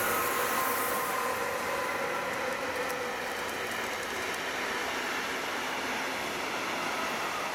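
Electric-hauled freight train passing close by: a whine from the two locomotives fades over the first couple of seconds, then the steady rumble of container and swap-body wagons rolling past on the rails.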